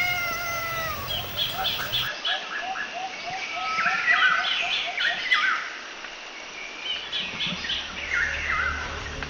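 Several songbirds chirping and singing over one another: a drawn-out falling whistle at the start, then a quick run of short repeated notes and overlapping chirps. A faint low rumble comes in near the end.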